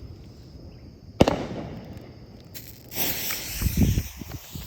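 A single sharp crack about a second in, then a firework cake's fuse catching and hissing steadily as it burns, with low rumbling handling noise near the end.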